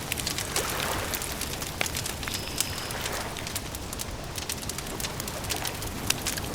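Campfire crackling, with frequent sharp snaps and pops over a steady hiss. A bird calls now and then in the background, including a brief high whistle about two and a half seconds in.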